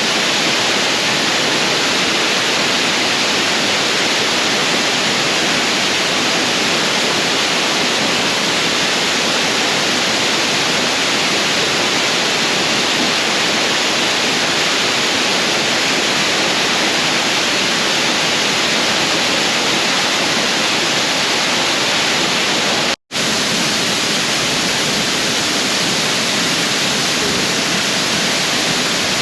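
Waterfall pouring: a loud, steady rush of falling water with no change in it, broken once by a split-second gap about three-quarters of the way through.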